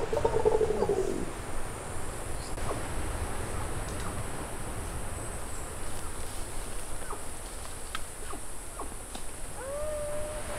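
Wild birds calling in a tree canopy: a call with several layered notes at the start, then scattered short chirps, and near the end a whistled note that rises and then holds, over a steady high-pitched hiss.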